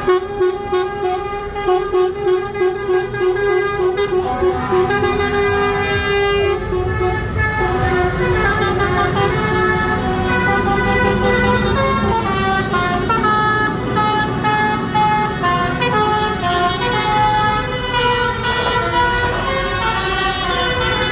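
Horns on passing lorries and tractors sounding over their running engines. The horn notes step from pitch to pitch like a tune, with a quick pulsing toot in the first few seconds.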